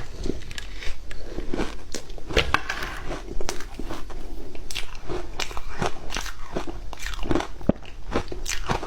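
Ice being bitten and chewed close to the microphone: a steady run of crisp, irregular crunches and cracks, several a second.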